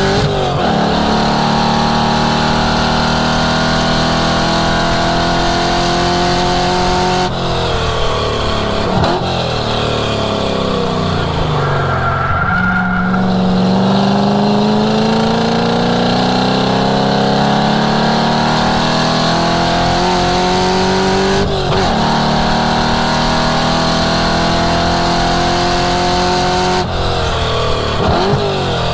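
1967 Ford Mustang's V8 driven hard on track, revving up through the gears with a break in pitch at each upshift. About eight seconds in it drops in pitch through braking and downshifts, then pulls up again.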